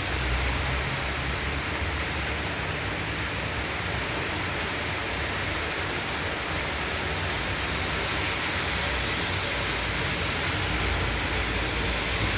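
Heavy downpour of rain, a steady dense hiss with no breaks.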